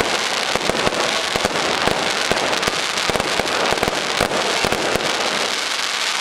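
Fireworks display at close range: a dense, irregular barrage of sharp cracks and bangs, several a second, over a continuous crackling hiss.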